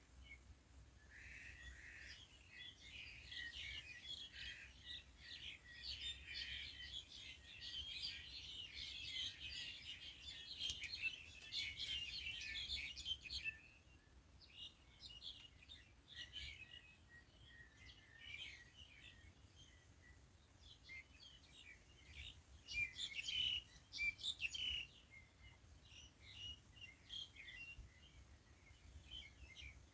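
Small birds chirping and twittering, many short high calls overlapping in a dense chatter for the first dozen seconds, then thinning out to scattered calls, with a louder flurry about two-thirds of the way through.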